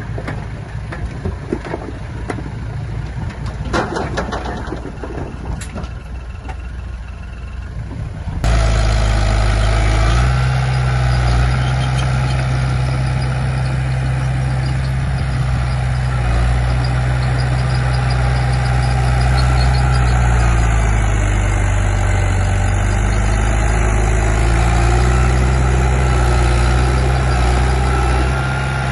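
A quieter stretch of background noise with scattered clicks, then, about eight seconds in, a sudden cut to a heavy diesel engine of an earthmoving machine running loud and steady, its pitch dropping and rising a few times.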